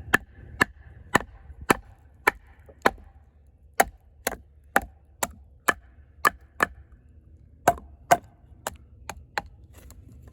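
A baton striking the spine of an Eafengrow EF-143 fixed-blade knife to drive its AUS-10 steel blade down through a piece of wood. It gives sharp knocks at about two a second, in three runs with short pauses between them.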